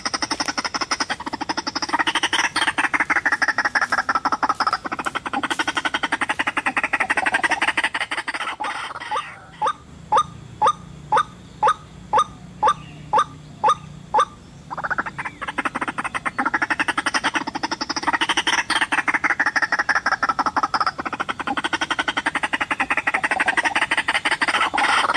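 White-breasted waterhen (ruak-ruak) calling: long runs of rapid, harsh croaking notes. Midway these break into about ten separate short, falling notes, roughly two a second, before the rapid croaking resumes.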